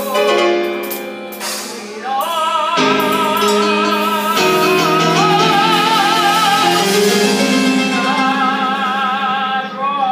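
Music: a singer holds long notes with a strong, wavering vibrato over sustained instrumental accompaniment.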